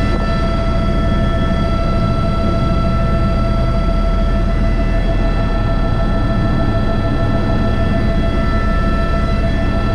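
Airbus H125 (AS350 B3) helicopter in flight, heard from the cockpit: a steady low rotor thrum under a constant high turbine and gearbox whine.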